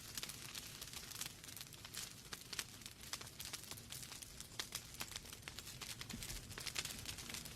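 Wood fire burning in a fireplace: logs crackling with rapid irregular pops and snaps over a faint steady hiss.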